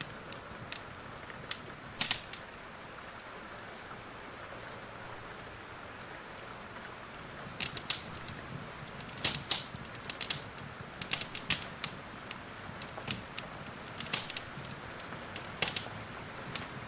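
Steady rain with the irregular sharp pops and crackles of a wood fire burning in a fireplace; the crackles are sparse at first and come more often in the second half.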